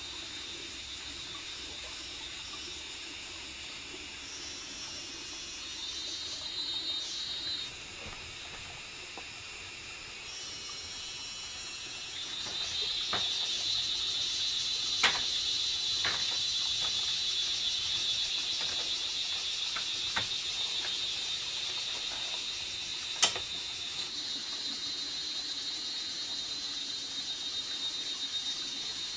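A chorus of insects chirring in a steady high band, growing louder about halfway through, with several sharp clicks or knocks, two of them louder than the rest.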